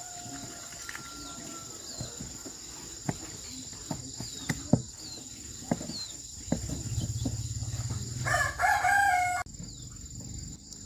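A rooster crowing about eight seconds in, one pitched call of about a second that cuts off sharply. Around it are scattered sharp clicks and taps, a low pulsing buzz starting about halfway through, and a steady high insect whine.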